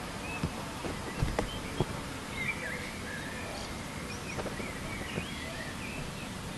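Birds chirping in short calls over a steady hiss of outdoor background noise, with a few sharp ticks in the first two seconds.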